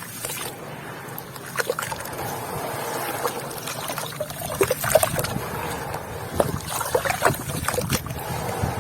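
Wet white cement with grains being crumbled and squeezed: many scattered crunchy crackles over a watery sloshing sound.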